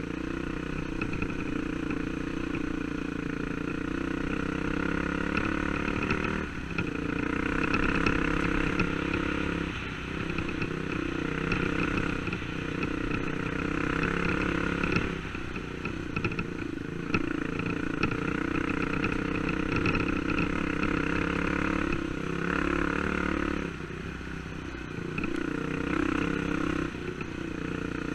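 Dirt bike engine running under load on a trail, its note rising and falling, easing off briefly four or five times before pulling again.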